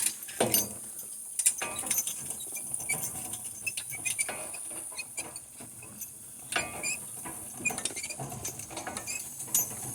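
Metal harness hardware clinking and rattling in scattered clicks as a team of two harnessed donkeys walks on.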